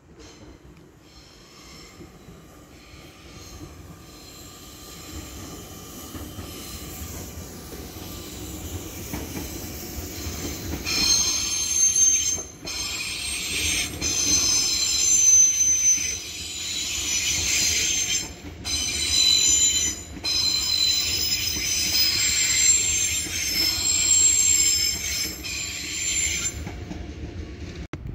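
Electric multiple-unit passenger train approaching, its running rumble growing steadily louder as it comes in. From about a third of the way in, its wheels squeal in several high pitched tones at once, with a few brief breaks. The squeal stops shortly before the end.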